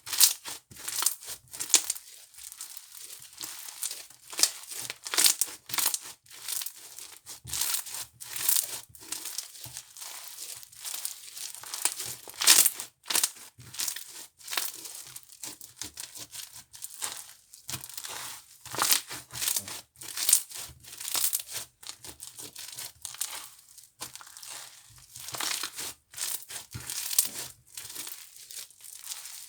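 Slime being squeezed and pressed by hand, giving crisp, irregular crinkling crackles, several a second, with a few louder snaps.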